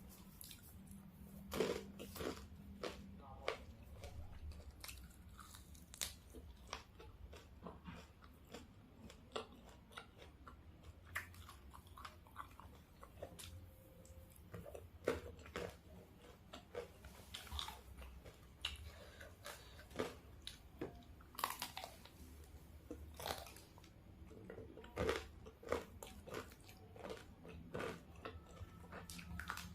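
Close-miked eating of crispy fried chicken: bites and chewing, with many irregular, sharp crunches.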